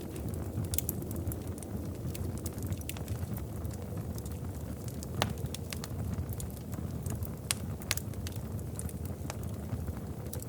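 Wood fire crackling in a fireplace: irregular sharp pops and snaps, one louder pop about five seconds in, over a steady low rumble.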